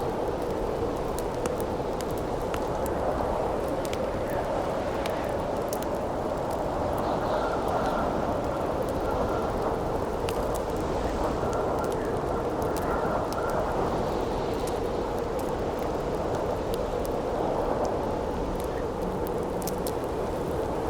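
Wood campfire crackling with scattered sharp pops over a steady howling wind. A faint whistling tone comes and goes in the wind about halfway through.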